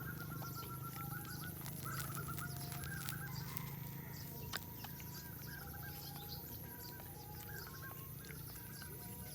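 Birds calling over and over in short trilled chirps, about one a second, over a steady low hum, with scattered sharp clicks in the first few seconds.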